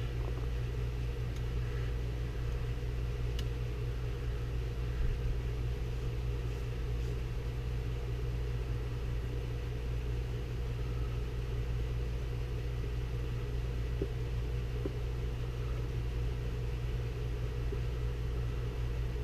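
Steady low background hum, like a fan or air conditioner running, with a few faint light ticks.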